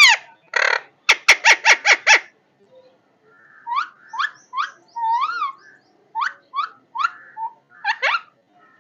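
A parrot calling. A quick run of about five harsh calls comes first, then a short pause, then a string of separate rising and arching calls.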